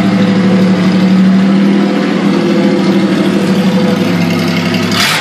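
Toyota engine idling steadily through its exhaust, with a short sharp noise near the end.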